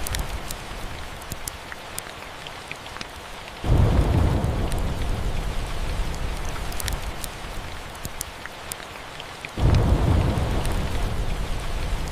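Steady rain with a few scattered sharp ticks, and thunder rumbling twice: a deep rumble breaks in suddenly a little under four seconds in and slowly fades, then another comes in near ten seconds.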